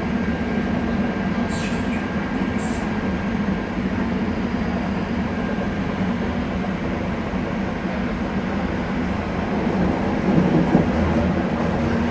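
B80D Stadtbahn light-rail car running, with its original traction motors driven through a newly fitted power converter. A steady running rumble carries a thin whine for the first few seconds, and the sound swells slightly near the end.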